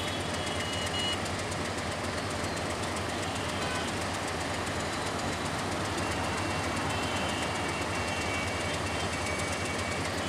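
Diesel locomotive hauling a passenger train slowly over curved station pointwork: a steady rumble of engine and rolling wheels, with faint high squeals near the start and again in the second half.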